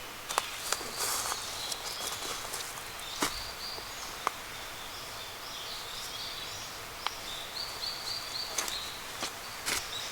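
A small bird calling in a run of short, high repeated notes, with scattered sharp snaps and clicks.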